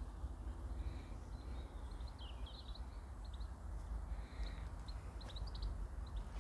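Small birds chirping in quick short notes, in two flurries about two seconds in and about five seconds in, over a steady low rumble.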